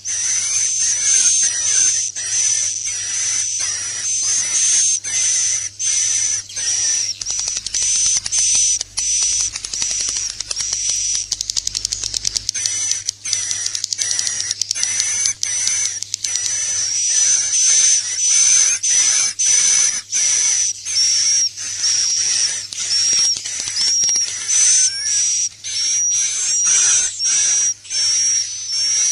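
Dense chorus of swiftlets twittering: fast, high-pitched chirps repeated without a break, with a stretch of very rapid clicking about a third of the way in. It is a swiftlet roosting-call track ('suara inap') of the kind played in swiftlet houses to draw the birds in to roost.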